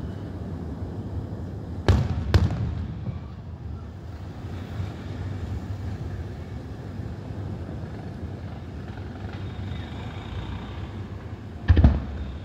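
Aerial firework shells bursting: two loud bangs about half a second apart around two seconds in, and another near the end, over a steady low background noise.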